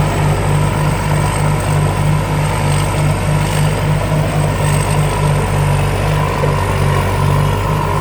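Combine harvester's Hino J08C 260 hp diesel engine and machinery running steadily while harvesting rice, a loud low drone with an even throbbing pulse a few times a second and a faint high whine.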